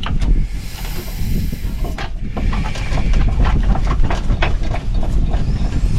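Chevy C-90 semi truck's diesel engine running with a steady low rumble. A high hiss, like air, starts about half a second in and lasts over a second, followed by a run of short clicks and knocks.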